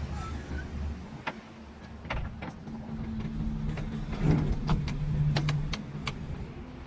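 JCB 3DX backhoe loader's diesel engine running, with a steadier, stronger low tone for a couple of seconds in the middle, and several sharp clicks and knocks.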